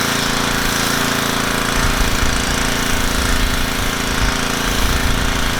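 Pressure washer running and spraying: a steady motor hum under loud, continuous hissing spray.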